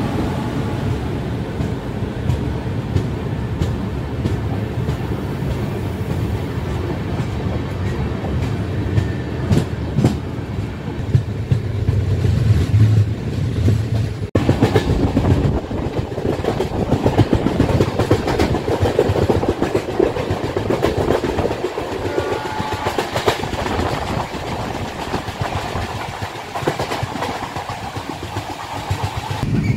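Express passenger train running along the track, with wheels clicking and clattering over rail joints under a steady rumble. The sound changes abruptly about halfway through: a deep rumble before, brighter clatter after.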